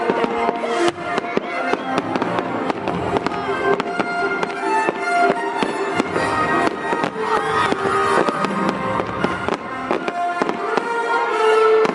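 Fireworks display going off, with many rapid cracks and bangs throughout, over music with sustained notes.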